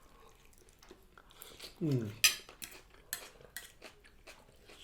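Cutlery clinking and scraping on plates during a meal. There are several sharp clinks from about two seconds in, and a short voice sound just before them.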